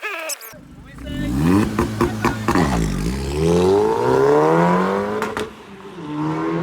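Mazda MX-5's four-cylinder engine revving hard as the car pulls away, loud through its exhaust: the pitch climbs, drops at a gear change about two and a half seconds in, climbs again, and drops and rises once more near the end.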